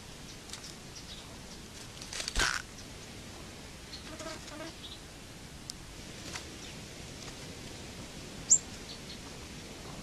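Small birds moving about in dry leaf litter inside a netted trap: a brief rustle about two and a half seconds in, a few soft low notes around four seconds, and a short, sharp, high chirp falling in pitch near the end.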